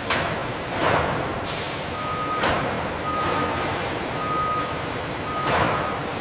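Factory machinery noise with several hissing whooshes that fall in pitch. From about two seconds in, an electronic warning beeper sounds at one pitch about once a second.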